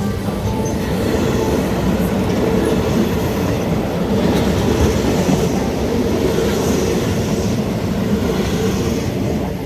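A train passing over a railway level crossing: a loud, steady rumble of wheels on the rails.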